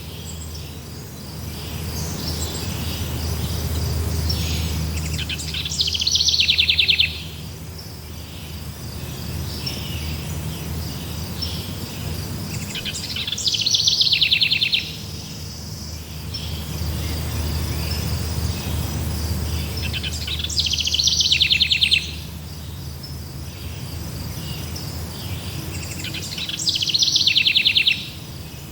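A songbird's loud, rapid trill that falls in pitch, repeated four times about seven seconds apart, over steady insect chirring and a low rumble.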